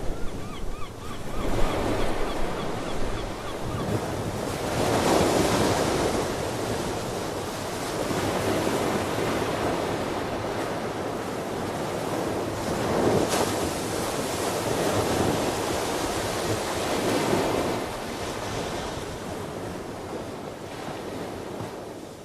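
Ocean waves surging and washing ashore in swells every few seconds, with wind on the microphone. A few short, repeated sea-bird calls come in the first couple of seconds.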